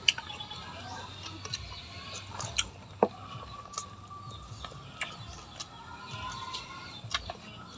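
Close eating sounds: irregular sharp clicks and crunches of chewing, about ten in the space of several seconds, over faint background chirping.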